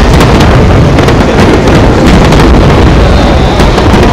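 Aerial fireworks barrage: a dense, continuous rumble of overlapping shell bursts with scattered sharp cracks, very loud.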